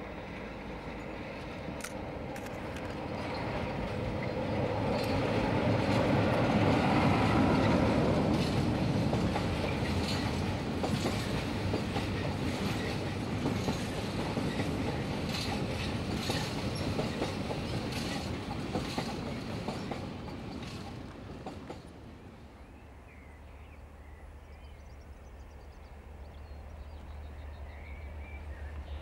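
Class 47 diesel locomotive hauling container flat wagons past: its Sulzer engine rises to a peak about seven seconds in, then the wagons' wheels clatter with repeated clicks over rail joints before fading out about twenty-two seconds in. After that a low steady drone from an approaching Class 56 diesel locomotive grows toward the end.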